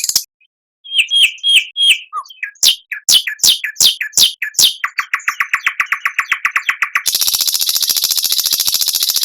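Recorded songbird song in a fast, varied string: sharp chirps and quick falling notes, then an even trill of about ten notes a second, then a loud, high, buzzy rattle for the last couple of seconds.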